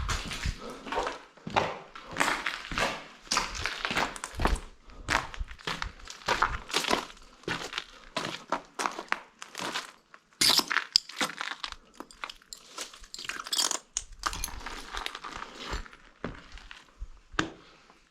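Footsteps crunching over debris on a floor, an irregular run of sharp crunches and scrapes.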